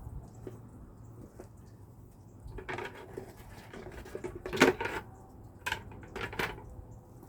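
A lid being pressed and knocked down onto a bucket: a few sharp knocks and clatters, the loudest about four and a half seconds in.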